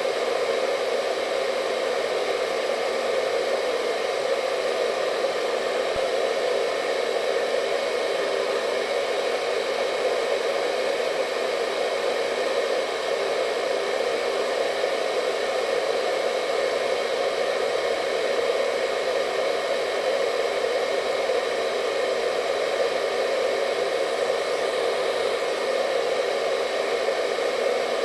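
Hair dryer running steadily: an even, unbroken rush of air with a faint whine from its motor.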